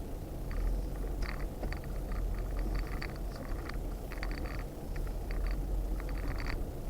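Off-road vehicle, likely a Jeep Gladiator, crawling a rocky trail: a steady low engine and drivetrain rumble with irregular crackles, scrapes and rattles throughout.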